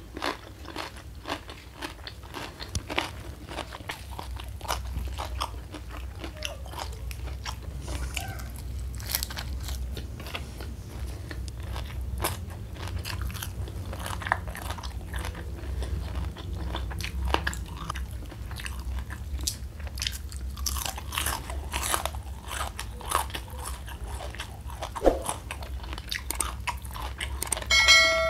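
Close-miked crunching and chewing of crisp food, raw cucumber and fried crispy mushroom, with many sharp crunches. Near the end a short chime sounds.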